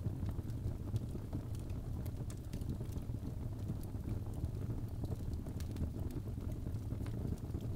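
Birch logs burning in a fireplace: a steady low rumble of flame with small crackles and pops scattered throughout.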